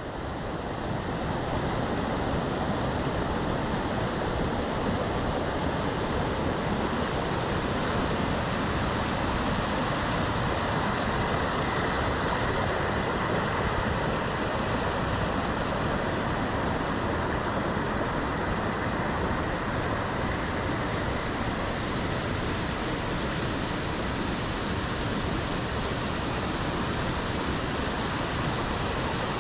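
Steady roar of a waterfall, fading in over about the first second.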